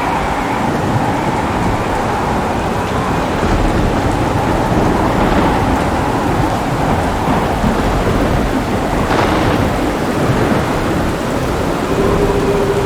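Steady heavy rain with a continuous low rumble of thunder.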